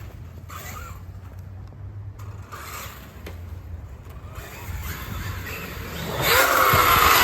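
Traxxas X-Maxx RC monster truck driving, first faint, then about six seconds in a loud rush of tyres and electric motor for about a second with a falling whine.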